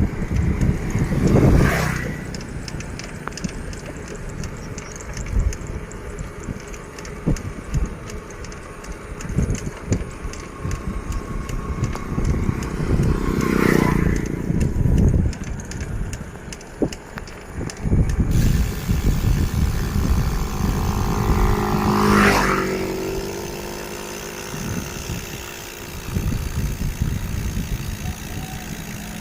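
Motor vehicles passing the moving bicycle three times, about a second in, midway and near two-thirds through, the last with a falling engine pitch as it goes by. Wind rumbles on the microphone in between.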